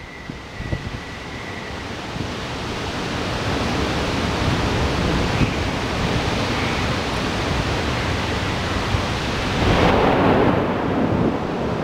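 Heavy storm downpour with gusting wind, a dense steady rush that grows louder over the first few seconds and swells with a stronger gust about ten seconds in. Low rumbling from wind buffeting the microphone runs underneath.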